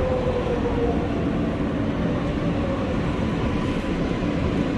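R143 subway train running on the NYC L line: its traction motors whine over the rumble of wheels on rail, the whine falling slightly in pitch as the train slows.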